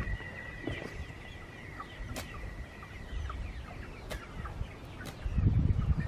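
Chickens clucking, with many short falling calls scattered through, and a low rumble of handling or wind noise near the end.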